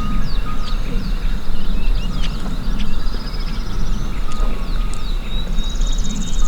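Small songbirds chirping and giving short buzzy trills in a steady chorus, over a continuous low rumble.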